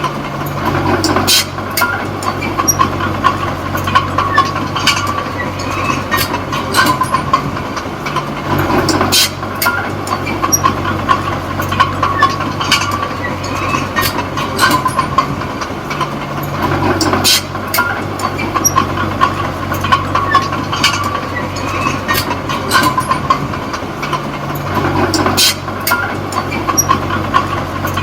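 Komatsu D20P small crawler bulldozer's diesel engine running under load, with its steel tracks clanking and squealing. The engine note shifts about every eight seconds as the dozer works back and forth.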